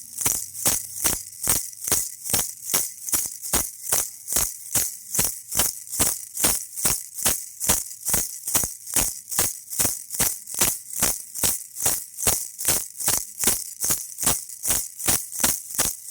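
Baby rattle shaken in a steady rhythm, about three shakes a second, each a sharp rattle of loose beads.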